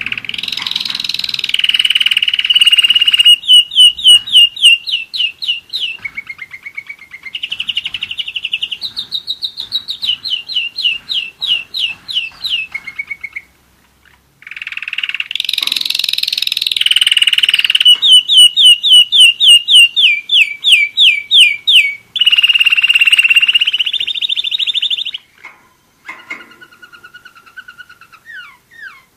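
German roller-split canary singing: two long song phrases made of rapid trills and rolls of repeated sweeping notes, with a short pause about halfway through and quieter, scattered notes near the end.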